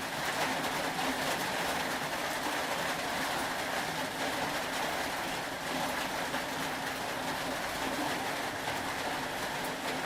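Steady rain falling, an even wash of noise with scattered faint ticks of drops.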